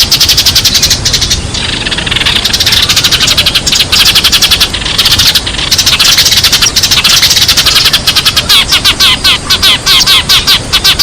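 Sparrows chirping in a loud, rapid, unbroken chatter of short notes.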